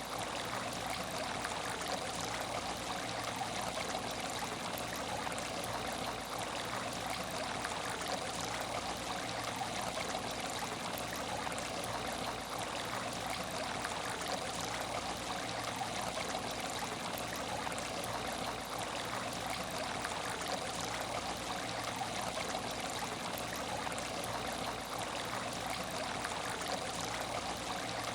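Water running and trickling steadily in an aquarium tank without fish, with a faint steady high tone underneath.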